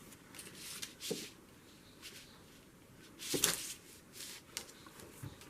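Plastic craft stencil sheets and paper being handled on a table: soft scattered rustles and light taps, with one louder rustle about three and a half seconds in.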